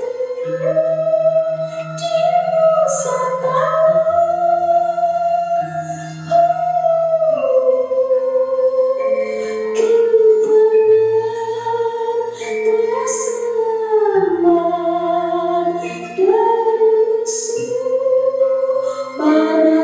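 Central Javanese gamelan music accompanying a dance, led by a long-held, sliding melody line over steady low tones, with a few sharp high metallic strikes.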